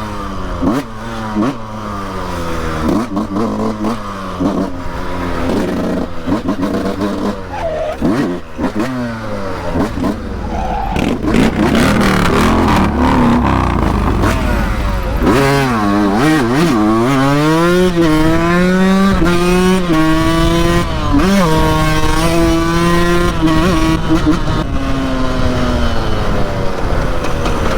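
Motorcycle engine at speed, revving up and dropping back again and again as it shifts through gears. About halfway through it gets louder and holds a steady high pitch for several seconds, then eases off near the end, with a low rush of wind noise underneath.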